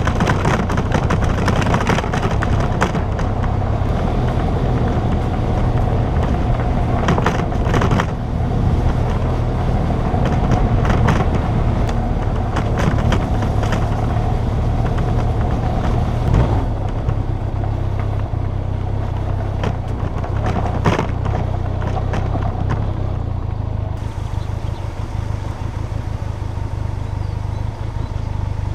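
Motorcycle engine running steadily under way, with wind noise and scattered knocks and clatter.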